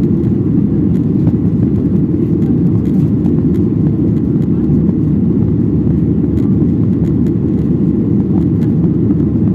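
Steady, loud cabin noise of a Boeing 737-800 heard from a window seat: an even low rumble of the engines and airflow, with faint scattered rattles from the cabin fittings.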